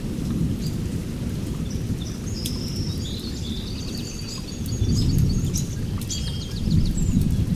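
Rain falling with a low rumble of thunder that swells twice in the second half, while birds chirp in short high calls through the middle.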